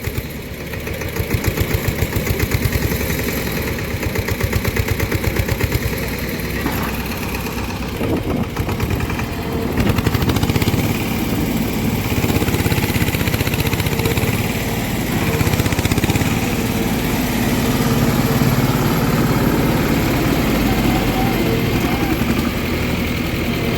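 Diesel engine of working farm machinery running, its speed and loudness rising and falling, steadier and louder from about ten seconds in.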